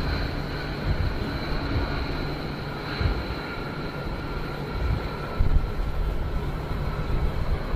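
Jet engines of a B-1 Lancer bomber running, a steady high-pitched whine over a continuous low rumble, one of the whines sinking slowly in pitch.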